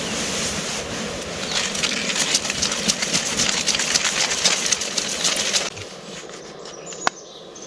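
Coffee grinder grinding a load of beans: a dense, crackly crunching that stops abruptly about two-thirds of the way through, followed by a single sharp click.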